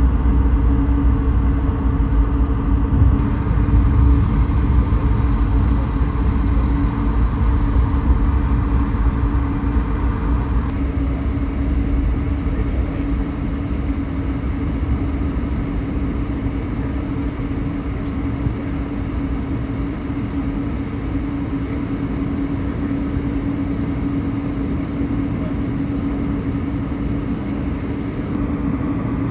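Airliner cabin noise in an Airbus A220-300, heard at a front window seat: the steady hum of its Pratt & Whitney PW1500G geared turbofans over a heavy low rumble. The rumble eases about ten seconds in.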